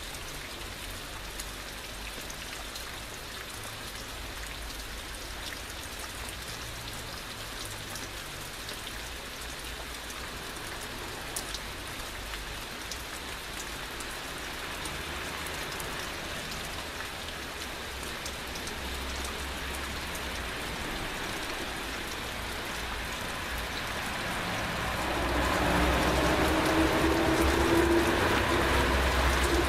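Steady heavy rain falling, with scattered drop ticks. About 25 seconds in the sound swells and a low drone with overtones comes in, edging slightly up in pitch.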